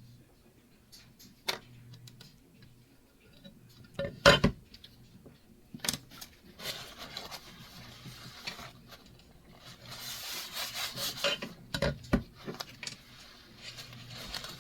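Handwork on vinyl over a glass cutting board: a few sharp knocks, the loudest about four seconds in, and stretches of scraping and rubbing, heaviest near the end.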